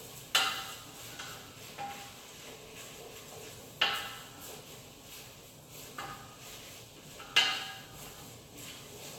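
Metal kitchen utensils and pans clinking and knocking, three louder knocks a few seconds apart with lighter clinks between, each ringing briefly.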